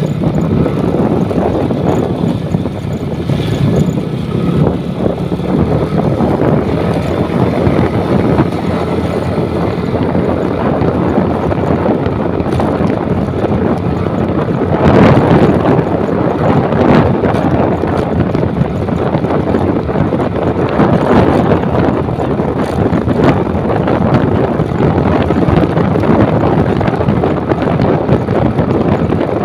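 Wind rushing over the microphone of a moving motorcycle, with the engine running underneath, steady with a louder gust about fifteen seconds in.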